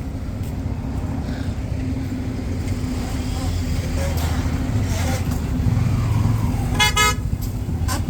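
Motorcycle engine running steadily while riding, a low continuous rumble, with one short vehicle horn toot near the end.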